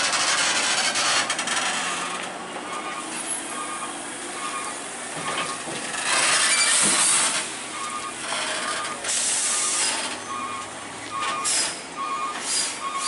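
Heavy trailer truck running, with several short bursts of loud air hiss, the longest about six seconds in, and a short beep repeating about once a second.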